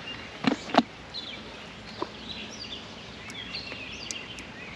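Songbirds chirping in the background over a steady outdoor hiss, with two sharp knocks about half a second in and a fainter one about two seconds in.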